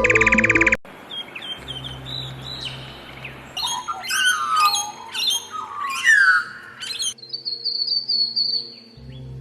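Birds chirping and calling: a run of quick chirps and warbling notes, then a long high whistled note near the end. It opens with a brief loud burst of music that cuts off abruptly, and faint steady tones sit underneath.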